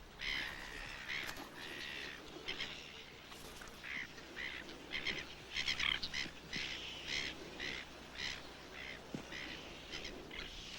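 Birds calling over and over with short, honking calls, several a second at times, some overlapping.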